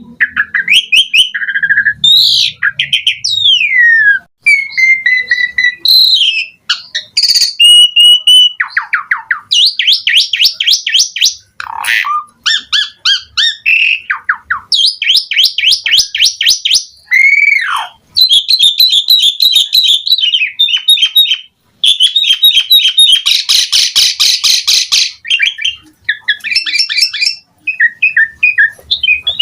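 Asian pied starling (jalak suren) singing a long, varied song. It mixes fast rattling trills of rapidly repeated notes, steeply falling slurred whistles and short chattering phrases, with hardly a pause.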